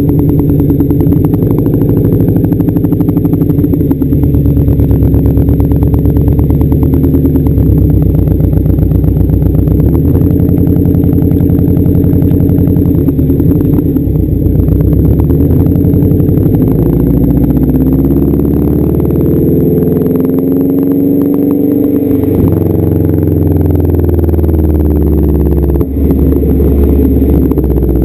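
1992 Subaru Legacy's flat-four engine through a straight-piped exhaust, loud, running and revving up and down several times, with slow rises and falls in pitch in the second half.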